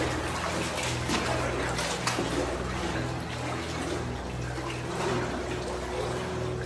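People wading through shin-deep floodwater, their legs sloshing and splashing in an irregular, continuous run of strokes.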